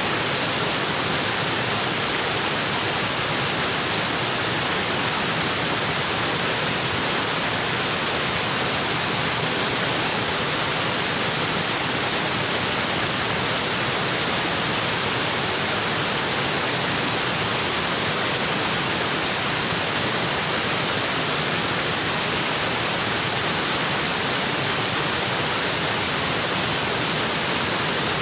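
Waterfall pouring onto rocks, a steady unbroken rush of water with most of its energy in the hiss.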